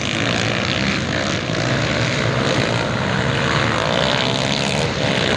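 Motocross bikes racing on a dirt track, several engines running hard at once, their pitch rising and falling as the riders rev through the gears.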